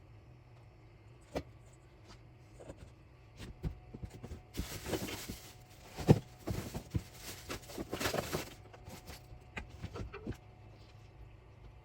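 Objects being handled: a run of clicks and knocks, with a louder spell of rustling and clattering in the middle and one sharp knock about six seconds in.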